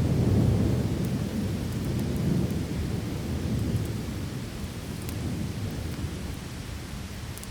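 Rolling thunder over steady heavy rain: a deep rumble, loudest in the first second or so, slowly dying away under the rain's hiss.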